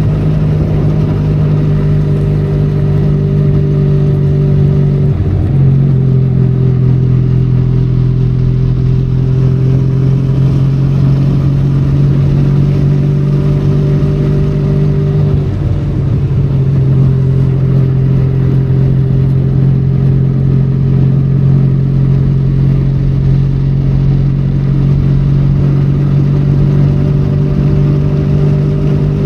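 Benelli Leoncino 500 Trail's parallel-twin engine running steadily under way, with rain and road noise over it. The engine note breaks and shifts briefly twice, about five seconds in and again around fifteen seconds in.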